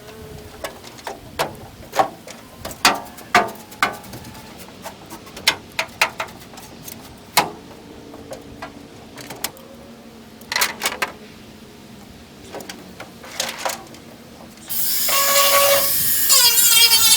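A scatter of irregular clicks and knocks, then about fifteen seconds in an electric angle grinder starts and runs loud and steady.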